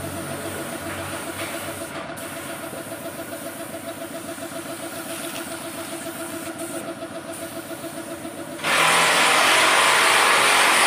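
A motor running steadily with an even, fast pulse. Near the end a loud, steady hiss cuts in suddenly and drowns it out.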